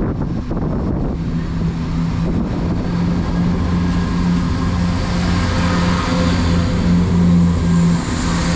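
East Midlands Railway diesel multiple unit pulling away under power, its engine running with a steady low hum. A rising hiss of wheels and rails builds toward the end, with some wind on the microphone.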